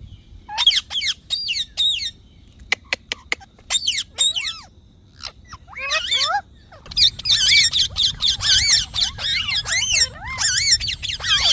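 Parrot squawking and chirping in bursts of quick, wavering calls, with a short run of sharp clicks about three seconds in and near-continuous calling in the second half.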